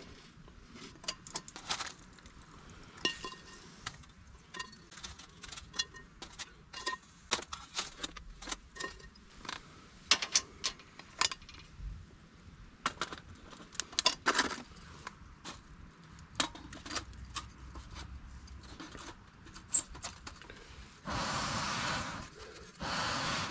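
Light metallic clinks and taps, scattered and irregular, from camp cookware being handled, with two short rushing noises near the end.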